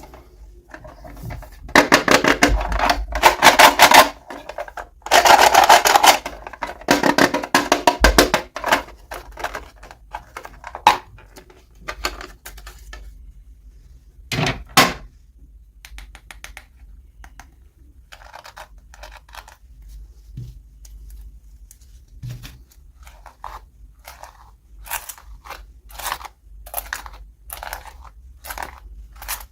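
Toy packaging being opened: two loud stretches of crinkling, tearing plastic, followed by scattered light clicks and taps of small plastic parts being handled.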